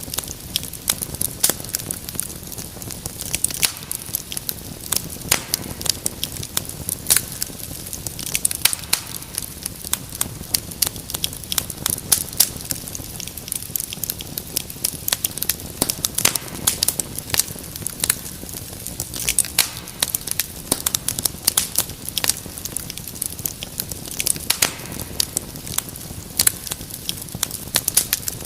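Wood fire crackling in a fireplace: many irregular sharp pops and snaps over a steady low rumble of burning.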